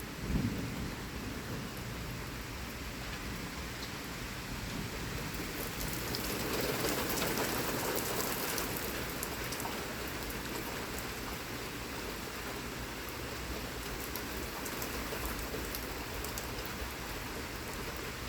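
Heavy thunderstorm rain pouring down in a steady hiss, swelling louder for a few seconds midway through. A brief low thump comes just after the start.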